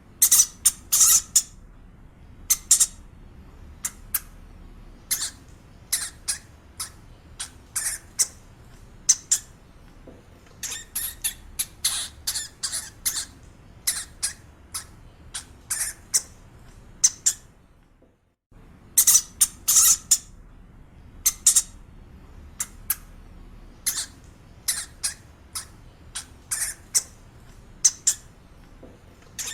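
Short, sharp, high-pitched animal calls, chirps or squeaks repeated in quick irregular clusters. There is a brief break about eighteen seconds in.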